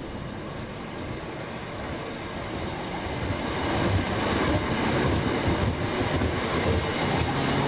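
Electric passenger train running along the platform, its rumble growing steadily louder as it comes closer.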